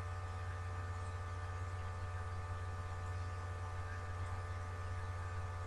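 Steady electrical mains hum, a low buzz with a stack of fainter higher tones over faint hiss, unchanging throughout.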